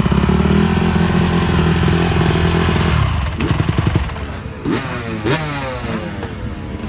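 Dirt bike engine running loud and steady close by, then about three seconds in it drops in level and revs up again and again in rising sweeps as it pulls away.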